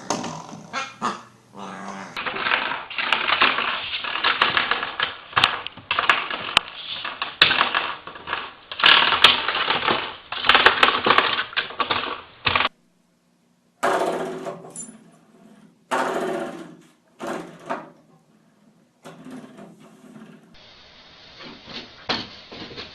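Puppies growling, whimpering and yipping while batting at spring door stoppers, the springs twanging and rattling in quick runs. Several short clips follow one another with abrupt cuts and one brief silent gap.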